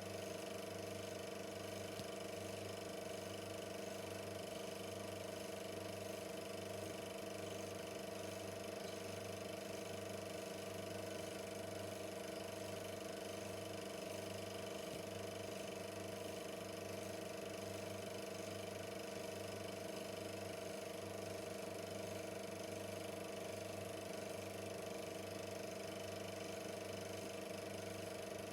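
Super 8 film projector running steadily: an even mechanical motor hum made of several steady tones, with a low hum underneath that pulses in a regular rhythm.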